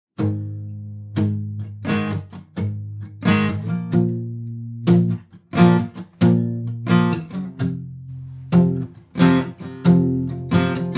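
Acoustic guitar strummed in a rhythmic chord pattern, starting about a fifth of a second in with no voice: the song's instrumental intro.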